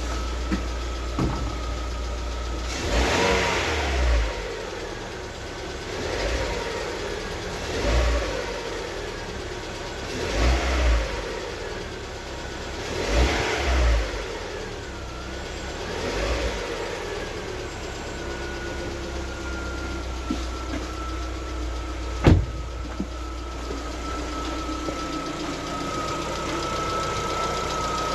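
Lada Vesta engine warming up, blipped to higher revs about six times and then left idling, with the ticking of its hydraulic lifters: they knock from about 60 °C until the engine reaches 90 °C, a fault that started at around 45,000 km. A single sharp click sounds about two-thirds of the way through.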